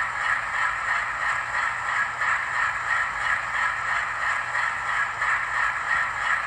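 Sound-decoder recording of an Alco 251 16-cylinder diesel idling, played through an HO scale model locomotive's small speaker: a steady, evenly pulsing chug at one unchanging pitch. This is the stock looped idle, which lacks the rhythmic revving up and down of a Woodward-governor-fitted WDM2.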